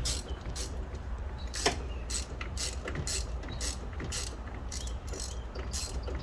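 Ratchet wrench clicking in short, irregular bursts as it is swung back and forth to tighten a spark plug, with one sharper click a little after a second and a half in. A steady low hum runs underneath.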